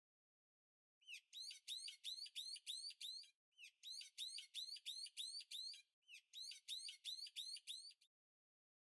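Bird-like chirping in three bouts of quick repeated high chirps, about four a second, each chirp rising and falling. The chirps sound over dead silence with no background ambience.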